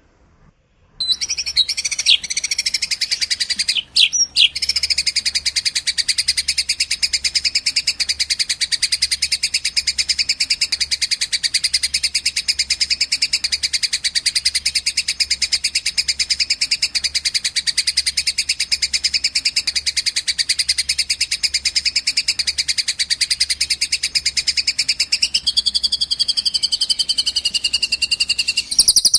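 Recorded songbird song used as a bird-tutor track: one long, very rapid high trill that starts about a second in and runs on almost without a break, with a brief gap around four seconds. Near the end a second, lower trilling line joins in.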